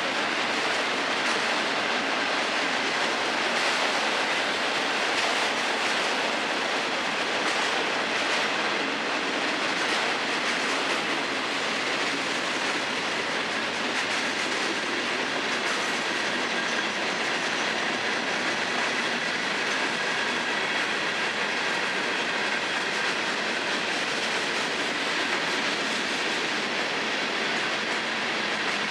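Freight cars of a long FEC freight train rolling past, steel wheels on rail making a steady din, with occasional clicks over the rail joints.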